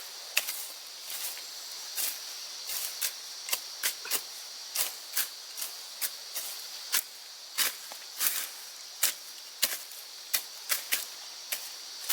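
Irregular sharp chopping strikes, about one to two a second, as of a machete slashing brush. A steady high insect buzz runs underneath.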